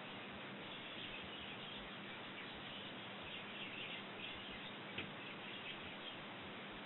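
Small garden birds chirping faintly over a steady hiss, with a single sharp click about five seconds in.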